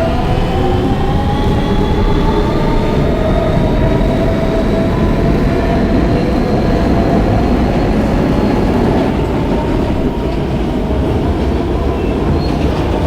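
R160B subway car with Siemens propulsion running between stations, heard from inside the car. Wheels rumble on the rails under the whine of the traction motors, whose tones rise slowly and then fade out about nine seconds in.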